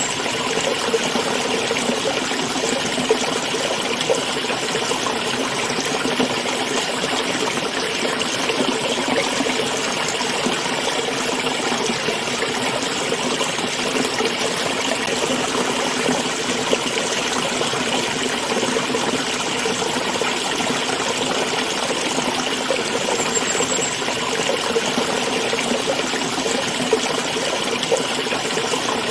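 A small stream trickling and babbling over stones in a steady, unbroken rush of running water.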